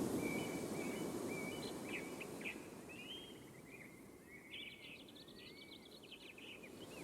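Several birds chirping and calling: short whistled notes and quick trills, with a rapid run of notes about five seconds in. Under them is a low rushing background noise that fades over the first few seconds.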